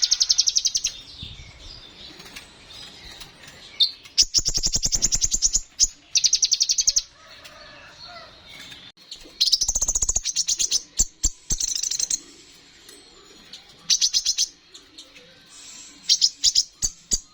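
Kolibri ninja, a sunbird, singing in bursts of rapid high-pitched trills about a second long, repeated with short pauses between them.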